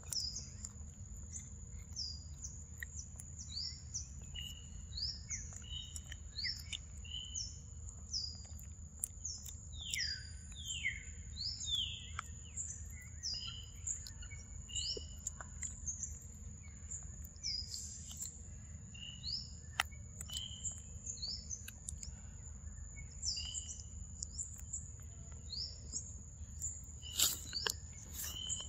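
Birds singing in forest: a long run of short, falling chirps repeated about every half second, over a steady high-pitched hum, with a few sharp clicks near the end.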